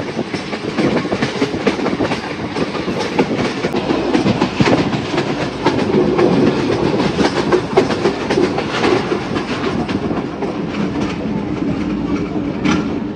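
Passenger train running along the track: a steady rumble with the wheels' clickety-clack and rattling over the rails, heard from a coach near the locomotive.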